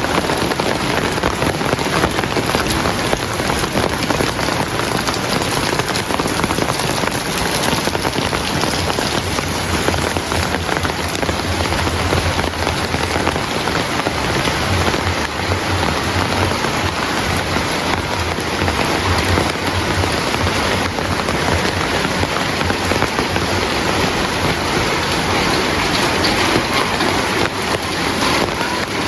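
Heavy rain pouring steadily, a dense even hiss of drops striking surfaces. A low rumble sits under it through the middle stretch.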